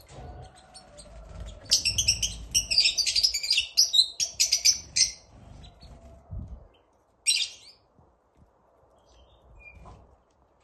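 A bird chirping: a rapid run of sharp, high chirps for about three and a half seconds, then one short call a couple of seconds later.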